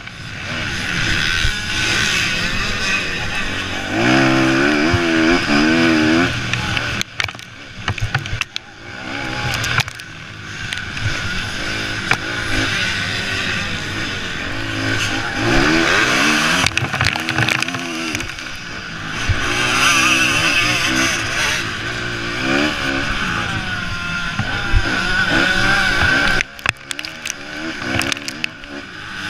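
Motocross bikes racing on the track, their engines revving up and down as they climb through the gears and back off. Several bikes are heard at once, with the sound swelling and fading as they pass.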